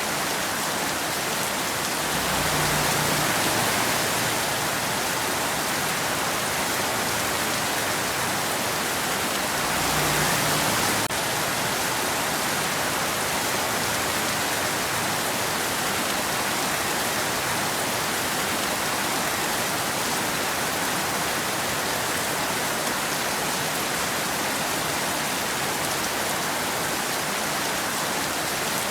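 Steady rain falling, a dense even hiss of drops with no thunder, swelling slightly twice.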